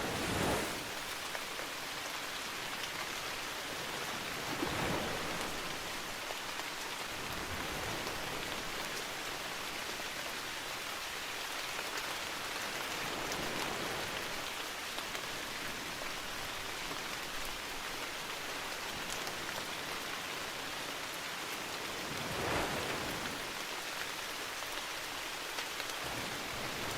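Steady rain falling, an even continuous hiss, with a few brief swells in loudness.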